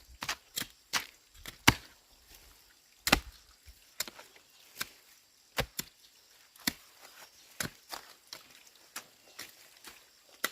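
A hand tool striking earth and stone over and over, in sharp, uneven blows about one or two a second.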